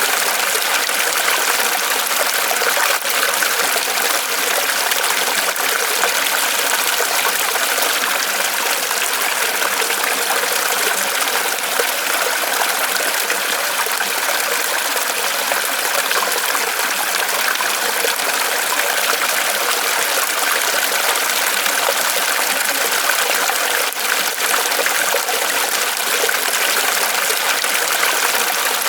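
Small waterfall of water trickling and splashing steadily off a tree trunk.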